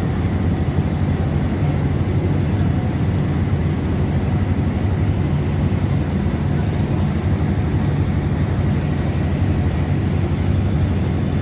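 A boat engine running steadily, a continuous low drone with a hiss of wind and water over it.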